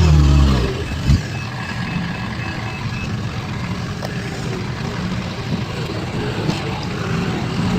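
Heavy construction vehicle's diesel engine running, its revs falling during the first second, with a thump about a second in. A reversing alarm sounds a row of short high beeps for the next couple of seconds over the steady running of the machinery.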